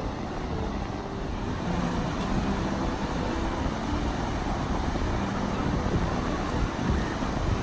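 Steady wind rumble on the microphone with ocean surf washing behind it, faint snatches of distant voices mixed in.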